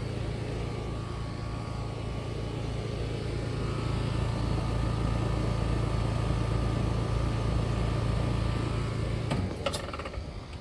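Outdoor air conditioner condenser unit running with a steady low hum, then shutting off with a couple of clicks about nine seconds in.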